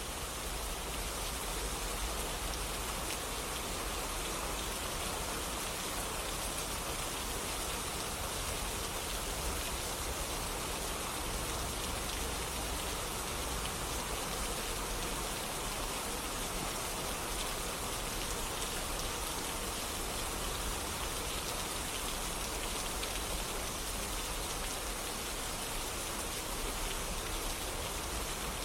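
Steady rain falling, a dense even patter of many drops hitting surfaces.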